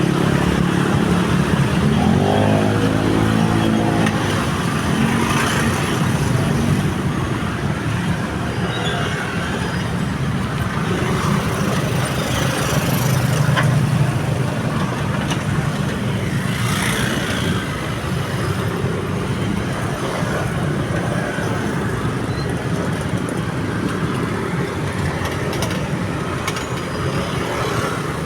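Road traffic of cars and motorcycles, engines running steadily. About two seconds in, one engine revs up.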